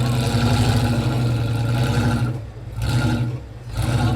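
Off-road 4x4's engine running hard under load while rock crawling. The revs drop off twice in the second half and come back each time.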